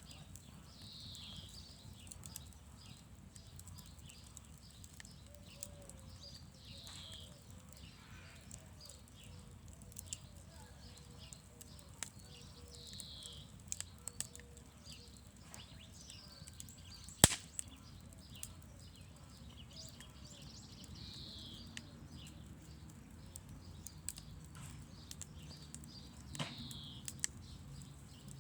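Wood campfire crackling, with scattered small pops and one loud snap about two-thirds of the way through. A short higher chirp, like a bird call, recurs every six or seven seconds.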